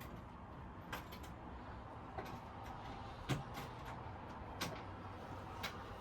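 A few scattered light clicks and knocks, the loudest about three seconds in, over a steady low hum.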